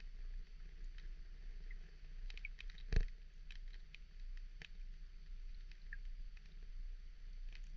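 Scattered light ticks and clicks over a steady low hum, with one louder click about three seconds in.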